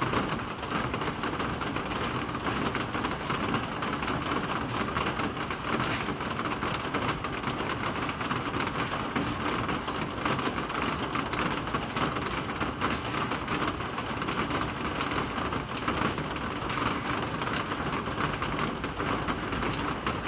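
Steady rain falling, a dense even patter of drops on hard surfaces with no let-up.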